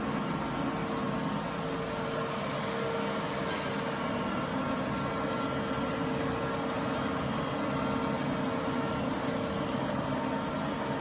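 Commercial upright carpet vacuum with twin 1000 W Ametek suction motors running steadily: an even rushing noise with a steady whine.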